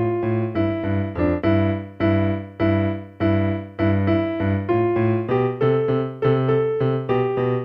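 Electronic keyboard played with both hands in a piano voice: a simple beginner's line of separate notes, each struck and fading, with a lower part sounding under the melody and some notes held longer than others.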